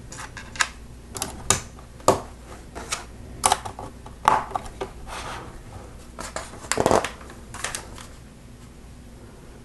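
Lego plastic plates being handled and pressed onto a build: a string of irregular sharp clicks and light rattles that stop near the end.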